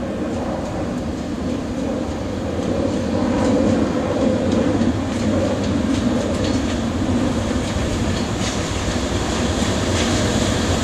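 Freight train passing close by on the Kagoshima Main Line: a steady rolling rumble, with the wheels clicking over the rail joints more and more sharply through the second half.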